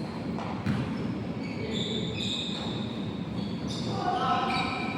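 Sounds of a basketball game on an indoor court: the ball bouncing, short high squeaks through the middle, and players calling out about four seconds in.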